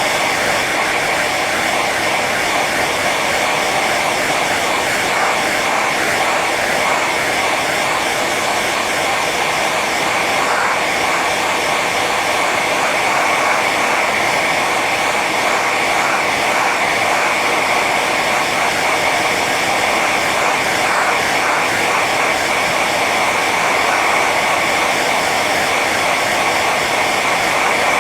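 Hair dryer running steadily on its high setting: an even rush of blown air with a faint whine from the motor and fan.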